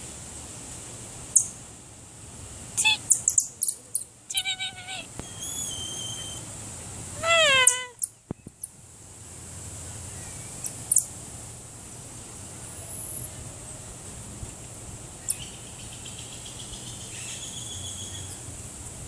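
High-pitched animal calls: scattered sharp chirps and whistles, a clear held call about four seconds in, and a quick run of about six rising calls about seven seconds in, with a brief loud noise at the same moment. Fainter chirps follow over a steady background hum.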